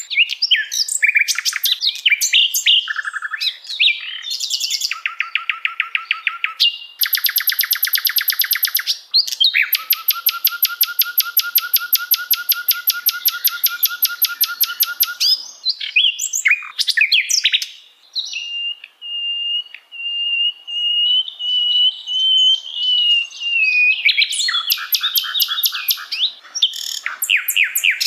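Recorded songbird song of the kind played as masteran for training cage birds: quick chattering phrases and long, very rapid trills, with a single long wavering whistle in the middle before the trills return.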